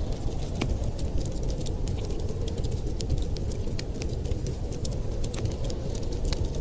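Crackling fire: many quick, irregular snaps and pops over a steady low rumble.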